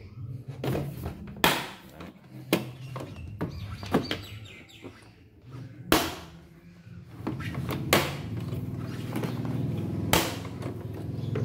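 Plastic latches on an air fryer's top cover clicking and snapping as the cover is pried loose: several sharp clicks and knocks a second or two apart, over a steady low hum.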